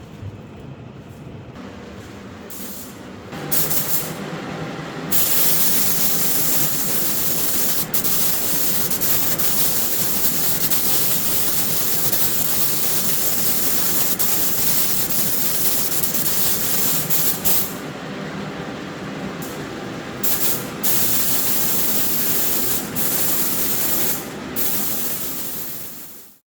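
Compressed-air spray gun hissing as Cerakote coating is sprayed onto motorcycle brake calipers, in long spells of spraying with a few short pauses, over a steady low hum.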